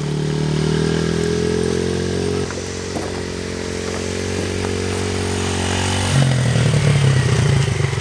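Small Yamaha 50 mini bike engine being ridden. Its pitch climbs over the first couple of seconds, drops suddenly about two and a half seconds in, and then holds steady. About six seconds in it turns louder, with a lower, pulsing note.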